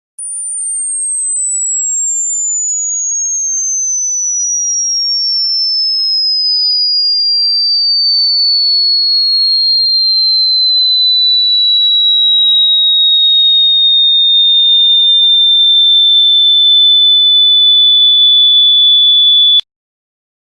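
A single pure electronic tone, very high-pitched, gliding slowly and steadily downward in pitch for about nineteen seconds, then cutting off suddenly.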